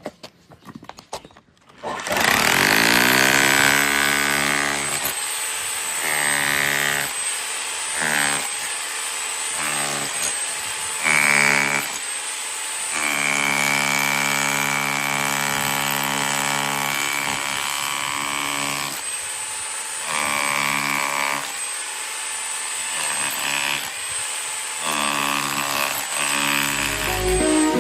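Parkside PBH 1050 D4 rotary hammer drill's electric motor spinning up about two seconds in with a rising whine, then run in a string of bursts of varying length, stopping and restarting.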